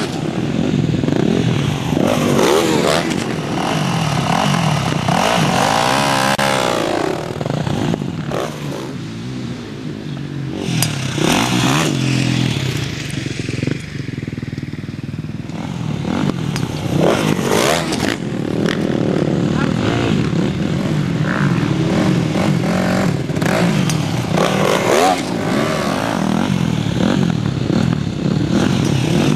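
Motocross dirt bike engines running and revving, pitch rising and falling repeatedly as the bikes are ridden.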